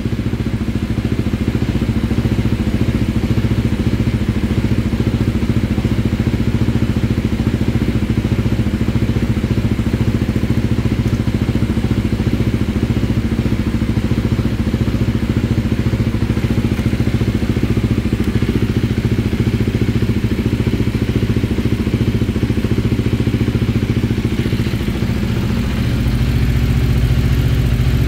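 KTM 390 Duke's single-cylinder engine idling steadily after an idle relearn, which the owner thinks has smoothed the idle out. Its note changes a little near the end.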